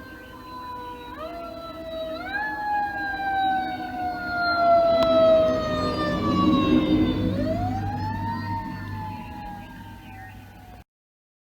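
Mechanical Q siren on a 2001 Pierce Enforcer fire engine. It winds up in two quick steps, slowly falls in pitch, then winds up again about seven seconds in, with the truck's engine running underneath. The sound cuts off abruptly just before the end.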